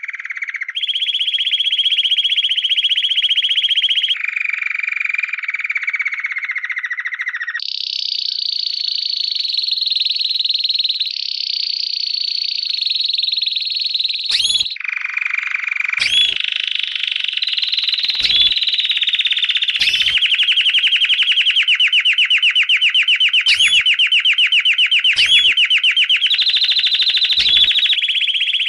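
Lovebird 'ngekek': long, rapid chattering trills held for several seconds at a time, stepping up and down in pitch. From about halfway on, several short, sharp rising chirps cut in over the trill.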